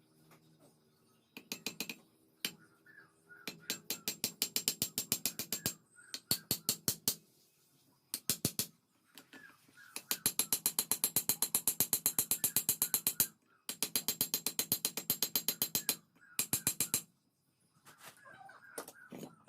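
Rapid hammering on a steel khukuri blade, in bursts of a few seconds at about six to nine strikes a second, each strike ringing metallically.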